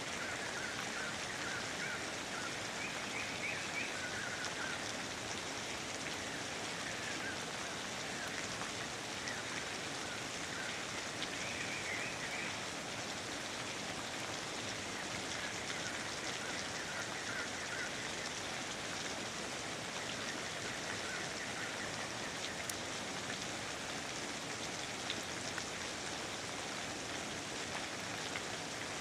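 Steady rainfall pattering on rainforest foliage, an even hiss of rain. Faint high chirps sound now and then through the first two-thirds.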